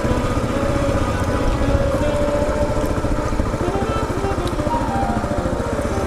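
Kawasaki KLR 650 single-cylinder four-stroke engine running, a steady rapid pulse of firing strokes, its pitch rising and falling slightly around the middle.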